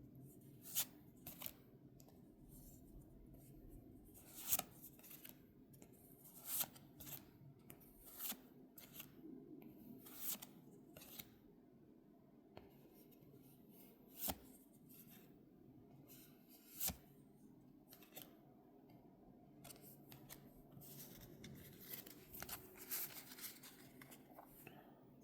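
Faint unboxing handling sounds: irregular sharp clicks and snaps with light rustling as the collection box's packaging and cards are handled, over a low room hum.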